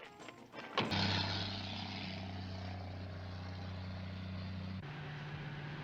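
A car engine starts abruptly about a second in and runs steadily with a low hum, its pitch dropping to a new steady note near the end.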